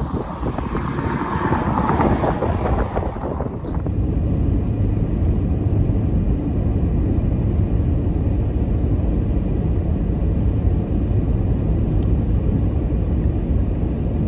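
Strong wind rushing and buffeting the microphone, with a sudden change about four seconds in to a steadier, deeper low rumble.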